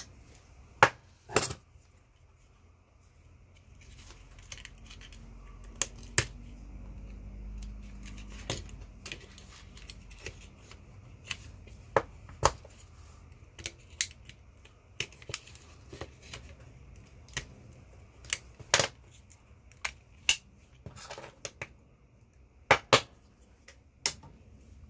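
Irregular sharp clicks and clinks of hand tools on small metal parts as a massager is taken apart for scrap, with a low rumble of handling from about 4 to 9 seconds in.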